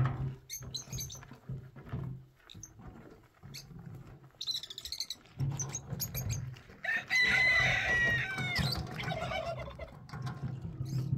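A rooster crowing once, a call of about two seconds starting about seven seconds in, among scattered clicks and knocks and a low hum.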